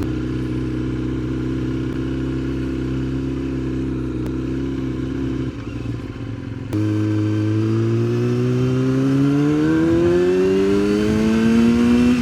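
Yamaha sportbike engine running at a steady speed, briefly easing off about halfway, then pulling hard in one gear with its pitch climbing steadily for about five seconds.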